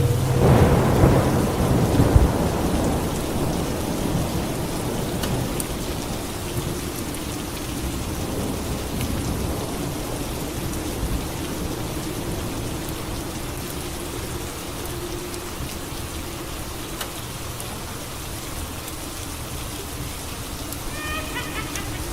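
Steady rain with a rumbling thunderclap that peaks in the first couple of seconds and slowly fades away.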